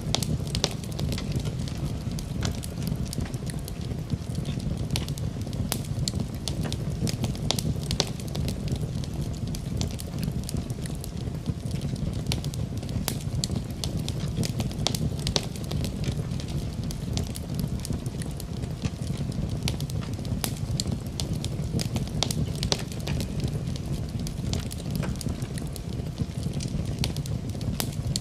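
Fire in a fireplace crackling, with frequent irregular sharp pops over a steady low rumble of flames.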